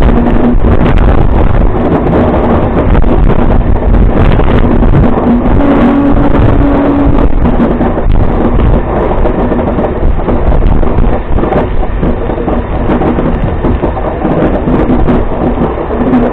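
MEMU electric train running, heard from on board: a steady, loud rumble and rush of wheel and running noise, with a humming tone that comes and goes.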